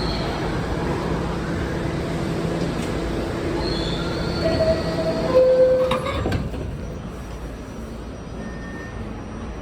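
R68 subway train running with a steady rumble. Brief high-pitched wheel squeals come about halfway through, then a few clicks. After that the noise drops to a quieter, steady hum.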